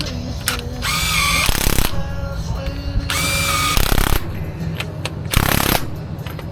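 Cordless power tool, an impact wrench or drill, run in about four short bursts of roughly a second each, its motor whine climbing in pitch during each burst.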